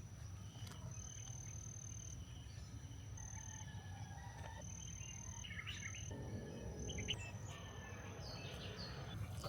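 Quiet ambient background: a steady low rumble with a few faint chirps, typical of birds or insects outside.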